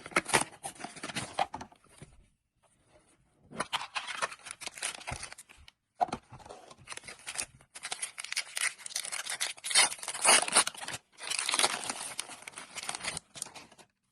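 Plastic packaging of a Topps Turbo Attax trading-card tin being torn open and crinkled by hand, in several bursts of crackling with short pauses between them.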